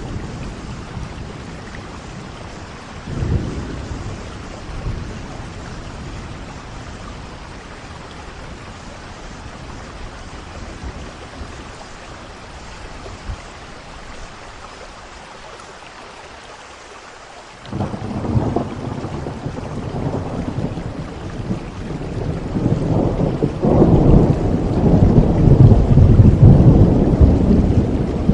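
Steady rain with rolling thunder. A short rumble comes about three seconds in; later a long, low thunder roll starts suddenly and swells, loudest near the end.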